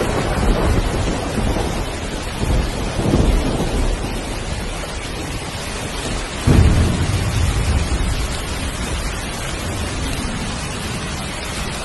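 Heavy rain falling steadily with thunder: low rumbles early on, then a sudden louder thunderclap about six and a half seconds in that rolls away over the next few seconds.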